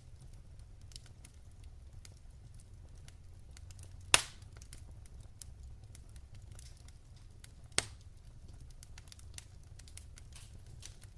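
Logs burning in a wood fireplace: a low steady rumble with scattered faint crackles, and two loud sharp pops, about four seconds in and just before eight seconds in.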